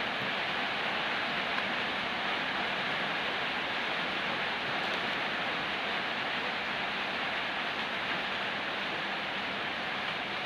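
Steady, even hiss with a faint low hum underneath, unchanging and without distinct knocks or clicks.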